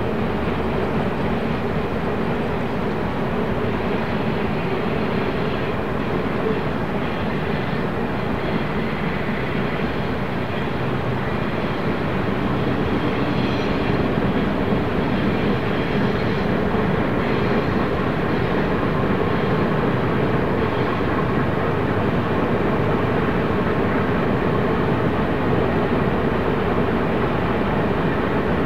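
Freight train running past, a steady rumble of wheels on rail and locomotive engines that grows slightly louder about halfway through.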